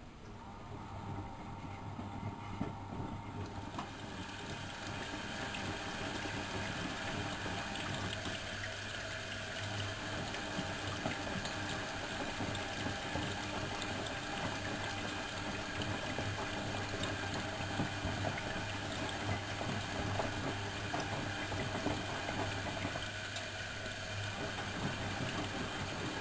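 Miele Professional WS 5105-C washing machine with water rushing through it over a steady low hum. The rushing swells over the first few seconds, then holds steady.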